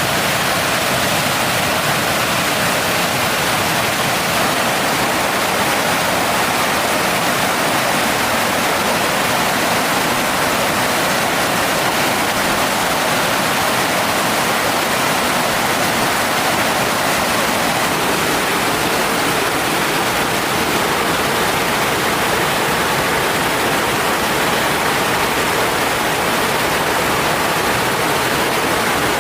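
Mountain stream water rushing steadily, an even noise that does not change.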